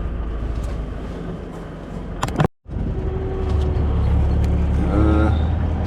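Steady engine and road noise inside a 2004 Ford Focus on the move. It drops out abruptly about two and a half seconds in, then returns with a stronger low hum.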